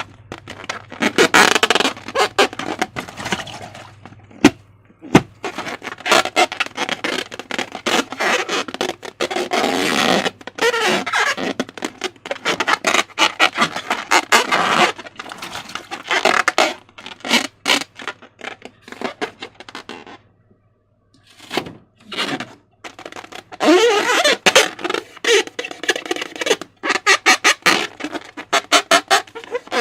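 Slime being squeezed and worked by hand: dense wet squelching and crackling clicks, with a brief pause about two-thirds of the way through.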